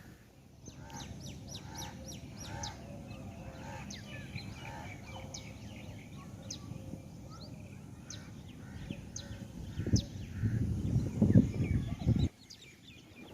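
Birds calling, with many short, quick downward chirps and repeated arched calls. From about ten seconds in, gusts of wind buffet the microphone, then cut off abruptly near the end.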